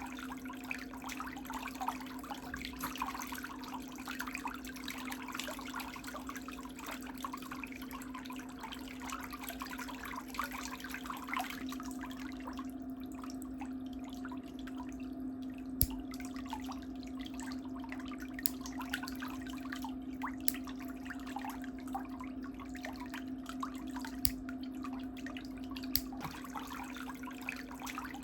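Water trickling and splashing over a steady low hum. About halfway through the splashing thins out, and a few sharp clicks stand out.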